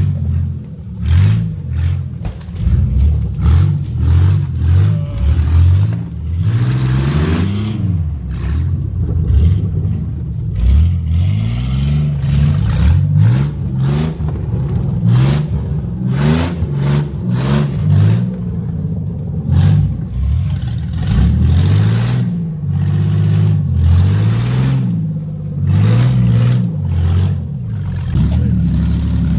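The 6x6 S10 pickup's engine revving hard again and again, its pitch climbing and falling with each burst of throttle, while sharp knocks and clattering come from the truck bashing its way through the woods.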